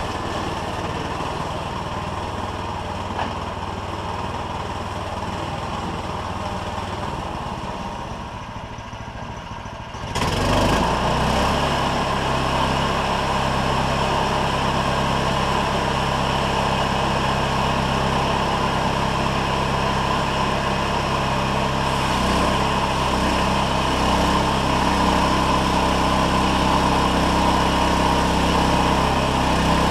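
A small engine running steadily. About ten seconds in it dips briefly, then runs louder and at a different pitch.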